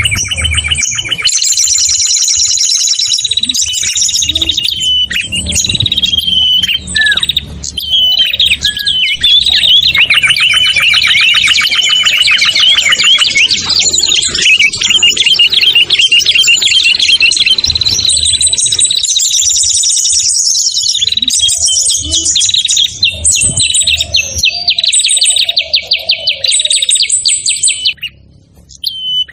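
Several small songbirds' songs layered together as a bird-lure (pikat) mix: dense, overlapping rapid chirps and high trills that stop about a second before the end.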